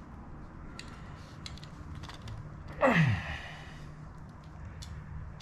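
A man's long, falling sigh of frustration about three seconds in, with faint scattered clicks and taps of small parts being handled before and after it.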